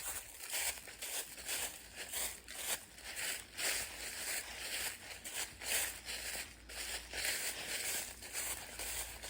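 Footsteps crunching along a woodland trail at a steady walking pace, about two steps a second.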